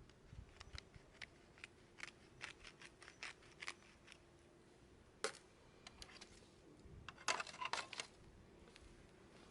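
Wood campfire crackling: faint, scattered small pops and clicks, with a quick cluster of louder pops about seven seconds in.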